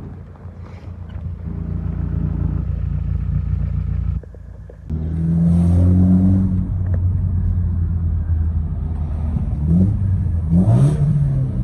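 A car engine running and revving. The sound drops away briefly about four seconds in, then comes back louder, with the engine note rising and falling near the end.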